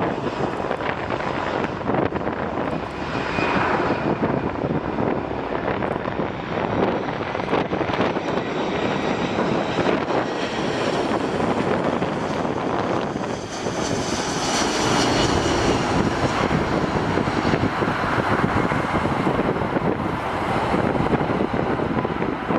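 Jet airliner's engines heard as a plane passes: a continuous wide rushing noise, with a high whine that grows stronger about two-thirds of the way in.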